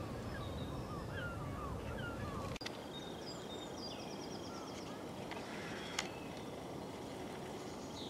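Wild birds calling outdoors: a run of short down-slurred call notes, then, after the low background hum drops away abruptly, a rapid high trill and scattered chirps.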